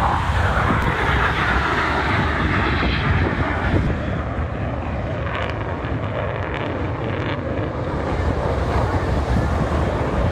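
Aircraft engine noise from a display aircraft passing, loud and steady, easing a little about four seconds in, with wind buffeting the microphone.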